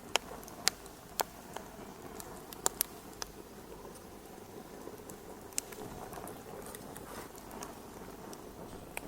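Wood fire crackling in a fireplace: a steady soft crackle with sharp pops, several in the first three seconds and one more about five and a half seconds in.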